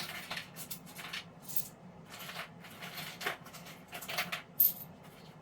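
Pieces of sea glass being handled and set into a resin tray mold: scattered light clicks and rustles, with one sharp clink about four and a half seconds in.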